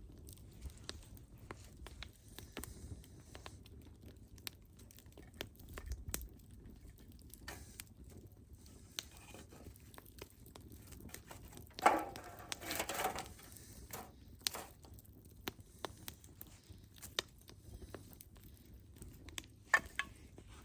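Burning firewood crackling, with irregular sharp pops and snaps and a brief flurry of louder crackling about twelve seconds in.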